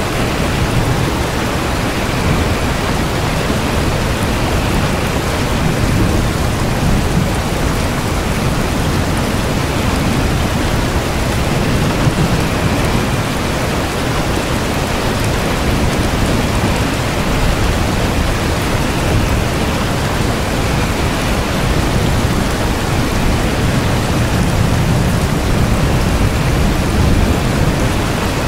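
Steady rain falling, with a low rumble underneath that slowly swells and fades.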